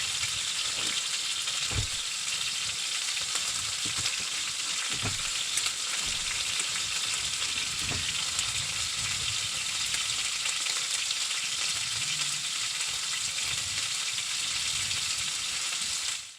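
Food frying in a pan: a steady, dense sizzle, with a few soft knocks of stirring.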